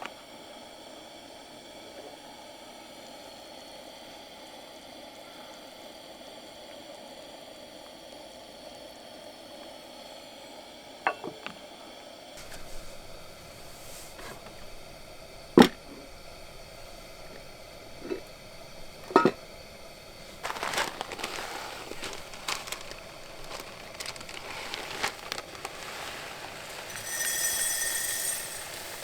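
Camp cooking sounds: a steady background hush, then a few sharp clicks and knocks of cookware, followed by light sizzling and clatter. Near the end there is a brief high whistle-like tone.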